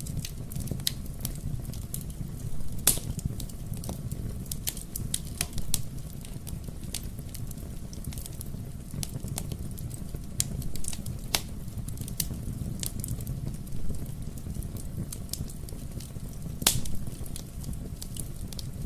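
Fireplace fire crackling: a steady low rumble of burning with many small sharp pops scattered throughout, two of them louder, about three seconds in and near the end.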